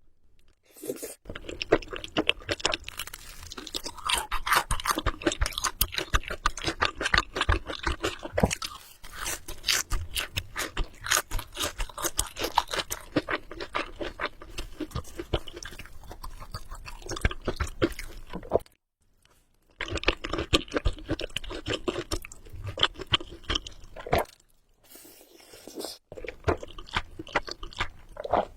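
Close-miked chewing of Samyang spicy carbonara Buldak noodles: a dense run of wet mouth clicks and smacks, broken by two short pauses, one about two-thirds of the way in and one near the end.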